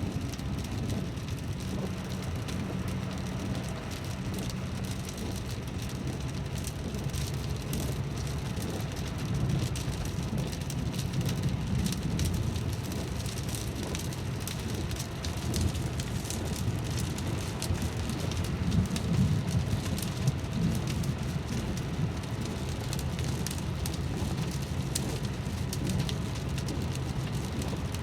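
Rain falling steadily, with many separate drop hits heard over a low rumble.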